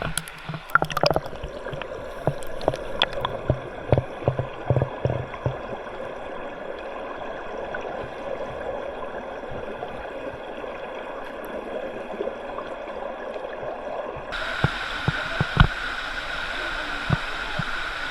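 Shallow river water gurgling and rushing over rocks, with a few sharp knocks in the first five seconds. About fourteen seconds in the rush turns suddenly brighter and louder.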